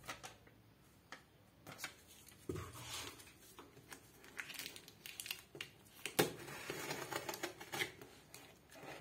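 Cardboard box and packaging being opened and handled by hand: rustling and crinkling with scattered clicks and knocks, a sharper knock about six seconds in.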